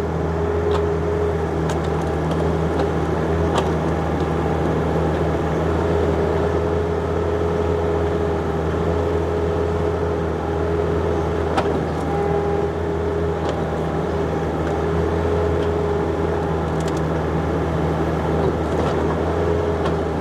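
John Deere 50ZTS mini excavator's diesel engine running steadily as the excavator digs. Over the drone a whining tone wavers and drops out now and then, with a few sharp clicks.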